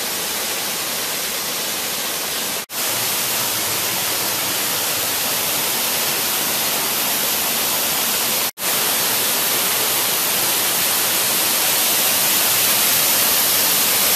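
Steady roar of the Sgwd yr Eira waterfall, an even rushing hiss heaviest in the high end. It drops out for an instant twice and grows slightly louder toward the end.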